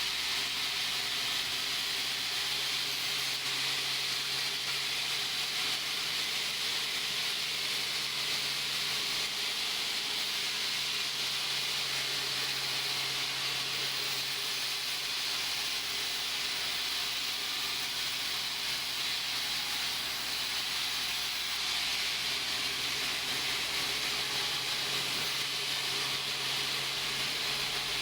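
Sawmill machinery running: a steady hissing noise with a faint low hum underneath.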